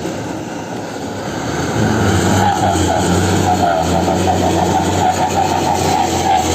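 Truck engine running under load, growing louder about two seconds in.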